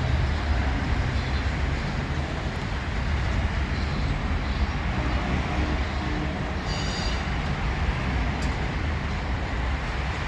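Passenger cars of a passing train rolling by on the rails: a steady rumble of wheels on track.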